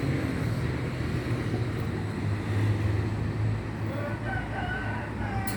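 A pet bird calling a few times near the end, over a steady low hum.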